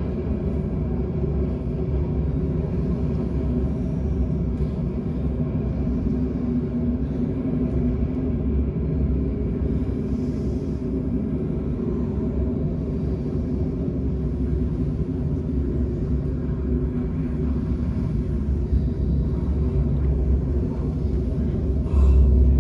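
A steady low rumble with a few held low tones, and a louder low thump near the end.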